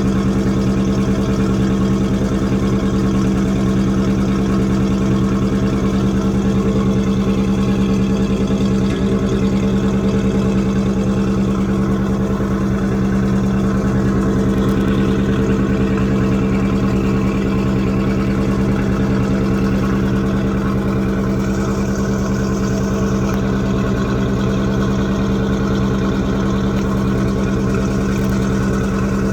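GMC SUV engine idling steadily at an even, unchanging pitch, its exhaust note carrying a strong low hum.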